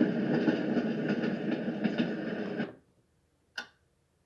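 White noise machine playing its recorded train sound through its speaker: a steady rushing noise with regular faint clacks that cuts off suddenly about two and a half seconds in. After a second of silence comes a single clock tick, the start of the machine's ticking-clock sound.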